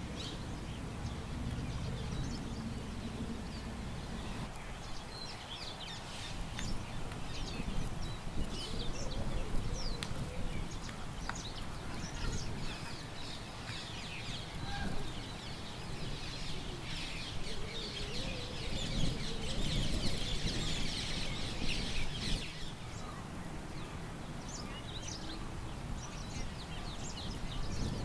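Small birds chirping and calling again and again, with a denser flurry of rapid chirping about two-thirds of the way through, over a steady low wind rumble.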